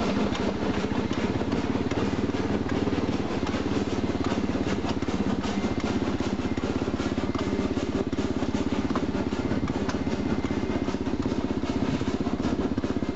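Kawasaki KLR650 single-cylinder four-stroke motorcycle engine running steadily at low speed.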